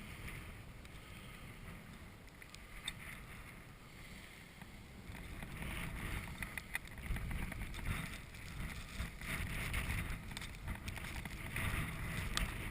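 Winter storm wind gusting and buffeting the microphone, a low rumble that strengthens about halfway through.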